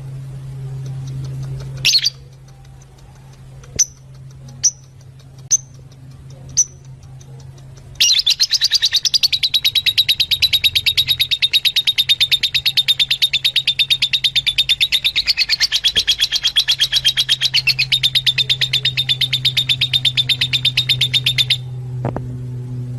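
Fischer's lovebirds calling: a few sharp single chirps in the first seven seconds, then from about eight seconds a rapid, unbroken chattering that stops shortly before the end. A low steady hum runs under the quieter parts.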